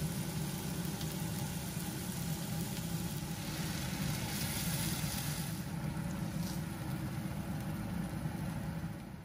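Chicken tenders sizzling in hot oil in a skillet, over a steady low hum; the sound falls away just before the end.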